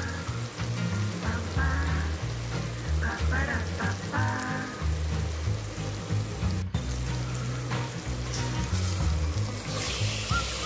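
Chopped onions, tomatoes and curry leaves sizzling in hot oil, over background music with a steady low beat. Near the end the sizzle jumps louder and brighter as raw goat intestine goes into the hot pan.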